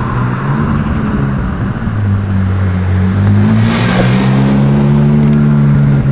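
Ferrari 458 Spider's V8 engine running as the car drives past, gaining revs, its note rising gently in pitch and growing louder through the second half.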